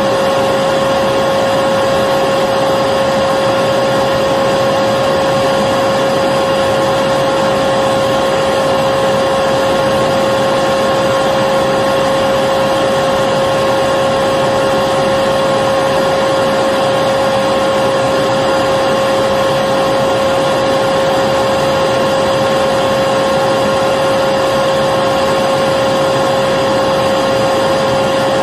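Electric vacuum cleaner running steadily, a constant whine over even rushing noise with no change in speed.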